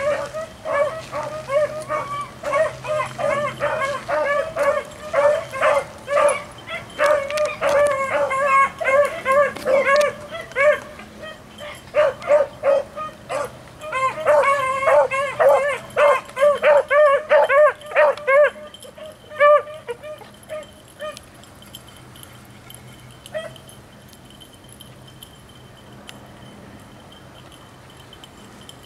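Beagles baying on a rabbit's trail: a rapid, continuous run of high calls that thins out after about 18 seconds into a few scattered yelps and then stops.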